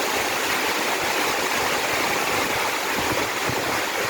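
Heavy rain pouring down in a strong wind, a steady even hiss.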